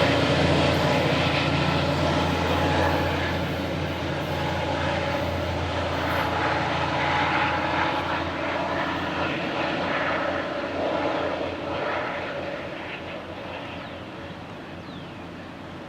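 MBTA commuter rail train's diesel locomotive running with a steady low drone and rumble, fading steadily as the train pulls away.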